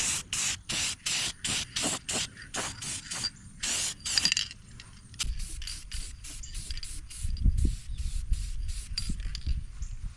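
Aerosol spray-paint can sprayed in short repeated bursts of hiss, about three a second, with a few longer sprays. In the second half the bursts are fainter over a low rumble.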